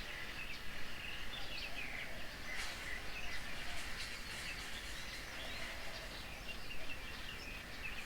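Several birds chirping and calling in short, overlapping notes over a faint steady background hiss.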